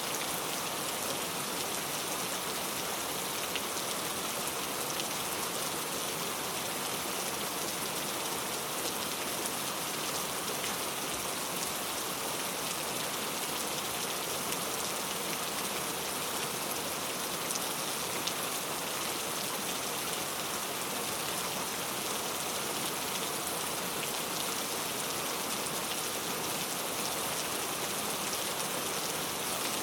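Steady rain falling on a surface, an even hiss of many drops with fine ticks of individual drops throughout.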